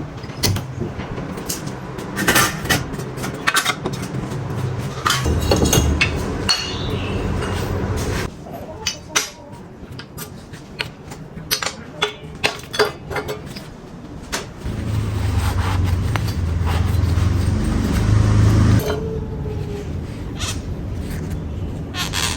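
Tools knocking and clinking against metal parts, with a quick run of sharp taps about halfway through, then a low steady hum for a few seconds.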